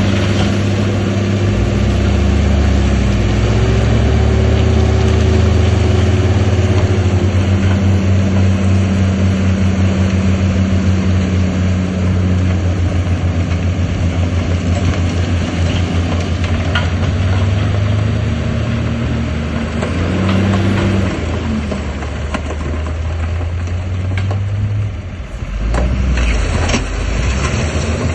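Heavy diesel engine of earthmoving machinery running, its engine note shifting a few times, with a few sharp clanks.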